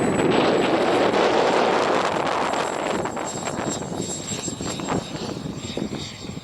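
A radio-controlled model aircraft flies past with a loud rushing engine noise and a thin high whine that drops slightly in pitch. The noise fades away over the second half.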